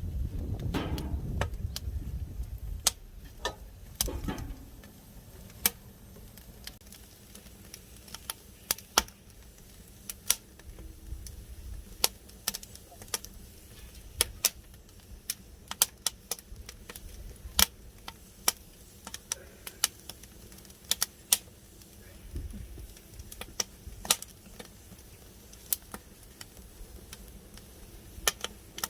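Wood fire crackling, with sharp pops coming at irregular intervals. A low rumbling noise is heard for the first four seconds or so, then fades.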